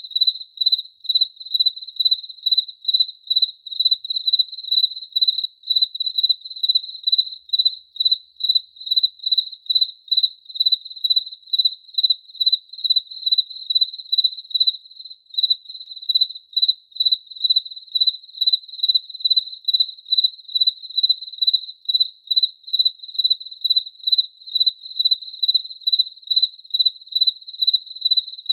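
A cricket chirping in a steady, even rhythm, a few high-pitched chirps each second, all on one pitch.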